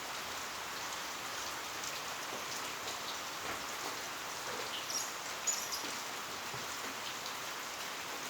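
Heavy rain falling steadily as an even hiss, with scattered drips and a few sharper taps about five seconds in.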